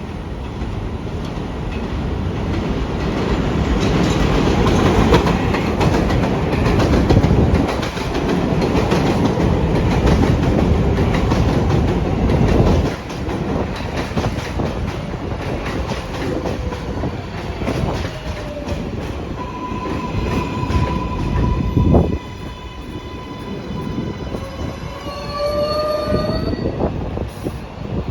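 R188 subway trains on the elevated Flushing Line. For about the first 13 seconds a train passes with a loud rumble of wheels on rail, then the sound drops off. Later a train's electric motor whine comes in, rising in pitch near the end as the train speeds up, with a sharp clack about 22 seconds in.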